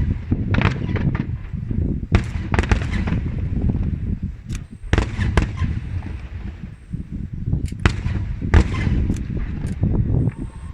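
Aerial fireworks shells bursting overhead, many sharp bangs in irregular volleys, some close together and some spaced out, over a continuous deep rumble of bursts and echoes.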